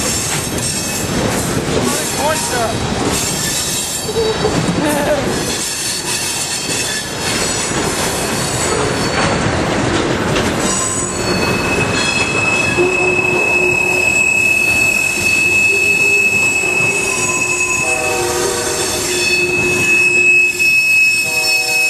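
Long Union Pacific train rolling past, its cars clattering over the rails, with a steady high-pitched wheel squeal setting in about halfway through.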